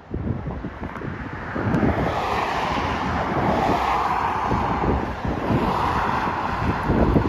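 A heavy truck driving by, its engine and tyre noise swelling about a second and a half in and staying loud, with wind buffeting the microphone.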